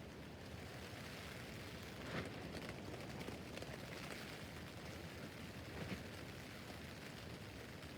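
Rain falling on a tent roof: a steady hiss of drops, with a couple of louder, sharper hits about two seconds in and near six seconds.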